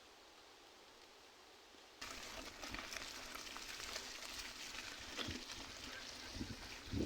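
Faint hiss, then about two seconds in a sudden change to the dense, crackling rolling noise of a mountain bike's tyres on a dirt and gravel trail, with many small clicks and knocks.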